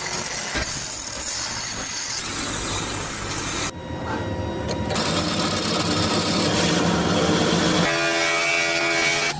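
A power tool working on metal parts: a loud, rasping grinding or sanding sound, broken by a sudden cut a little under four seconds in. Near the end, several steady tones come in over it.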